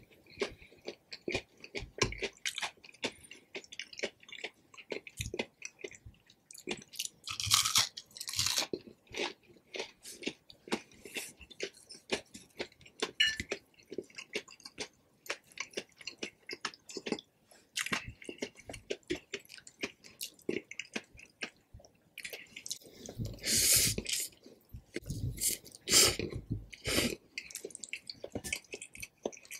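Close-miked eating sounds: chewing and crunching of breaded Spam fries and Indomie Mi Goreng noodles, a dense run of quick wet mouth clicks. Louder bursts come about eight seconds in and again from about twenty-three to twenty-seven seconds.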